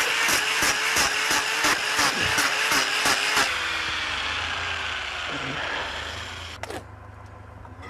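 Angle grinder grinding a cow's hoof during hoof trimming: the motor loads and eases in regular pulses about three times a second. About three and a half seconds in it is switched off and winds down with a slowly falling whine. A single sharp click follows near the end.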